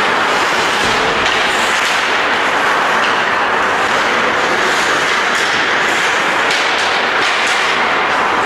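Steady noise of ice hockey play: skates scraping and carving on the ice, with a few sharp clicks of sticks and puck in the second half.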